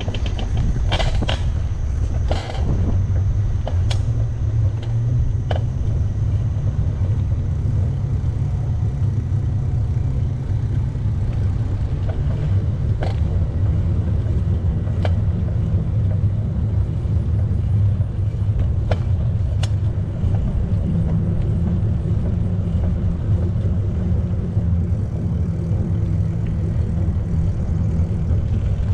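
Steady low rumble of riding noise on a bicycle, wind and tyre noise, with scattered light clicks and rattles.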